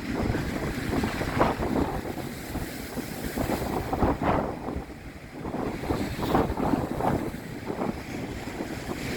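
Strong wind buffeting the microphone in irregular gusts, over the wash of sea waves breaking and splashing.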